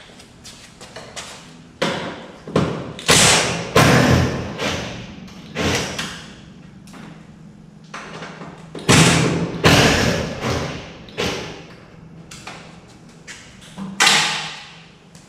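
A run of irregular thumps, knocks and clanks from body panels and their fasteners being handled as the dirt-track race car's front clip is taken off, with the loudest knocks about three seconds in, about nine to ten seconds in, and near the end.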